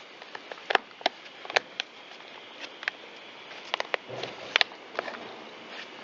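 Irregular sharp clicks and light knocks of hard plastic parts being handled and pressed together as the top shroud of a Stihl MS193T chainsaw is fitted into place.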